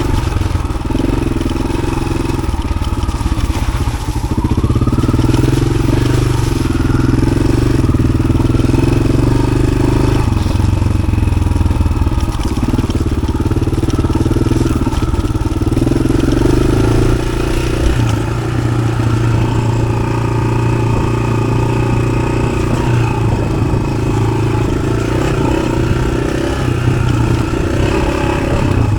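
Yamaha XT600's single-cylinder four-stroke engine with an Arrow aftermarket exhaust, running as the bike is ridden. The engine note steps up and down with the throttle a few times.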